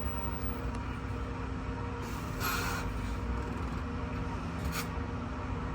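Electric bus running, a steady low hum with faint steady whining tones; a short hiss about two and a half seconds in and a brief sharp click near the end.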